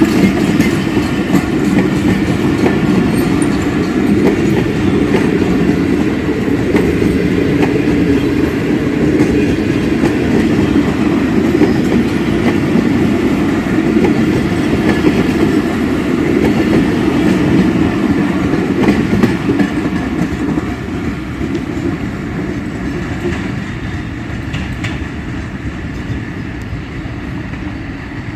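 Train running past on the rails: a steady heavy rumble with the clatter of wheels over the track, fading away over the last several seconds.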